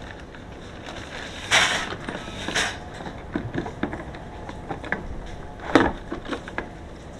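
Work and handling noises: scattered small clicks and knocks, with short scraping or rustling bursts about a second and a half in, again near three seconds and near six seconds.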